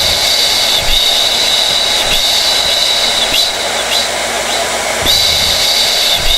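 Hair dryer running steadily: a constant rush of air with a high, steady whine from its fan motor.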